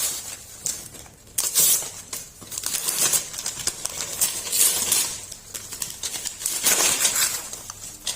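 Gift wrapping paper being torn and crumpled off a present, in irregular rustling bursts.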